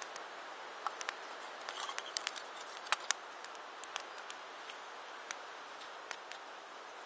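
Wood campfire burning: a steady hiss with irregular sharp crackles and pops, the loudest pair about three seconds in.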